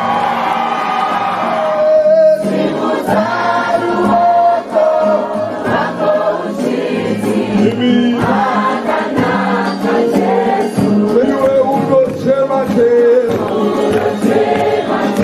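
A group of voices singing a worship song together, as a choir.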